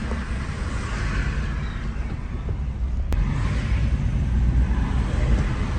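A car on the move: a steady low rumble of engine and road noise, with a single sharp click about three seconds in.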